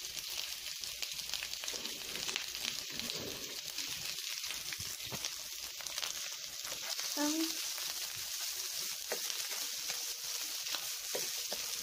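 Diced hot dog sausages sizzling in hot oil in a nonstick frying pan, a steady hiss with small crackles, as a spatula stirs them around to brown.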